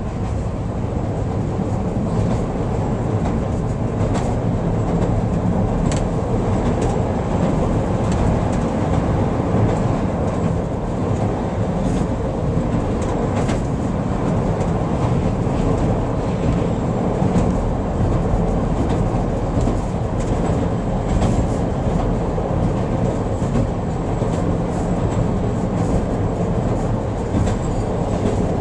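Chicago 'L' rapid-transit train running along elevated track, heard from inside the car: a steady rumble of steel wheels on rail with frequent light clicks as the wheels cross rail joints.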